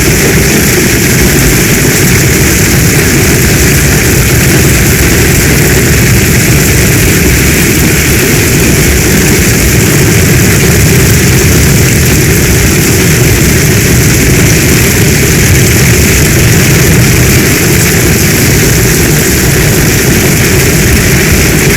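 Heavy storm rain falling steadily, a constant loud hiss over a deep, unbroken rumble.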